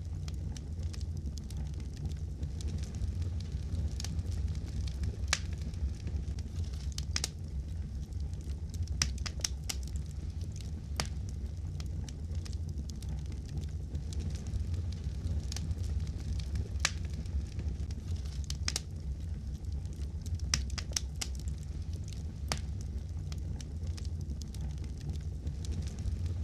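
Wood fire crackling in a fireplace: sharp, irregular pops and snaps over a steady low rumble of the flames.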